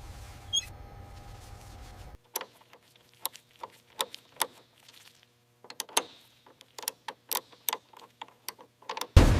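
A steady low hum, then a run of irregular sharp clicks and taps, a few at a time, as of small tools or parts being handled; a loud sudden bang comes near the end.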